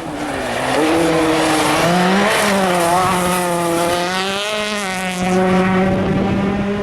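Rally car engine revving hard on the stage, its pitch climbing and dropping again and again with throttle and gear changes, louder from about a second in.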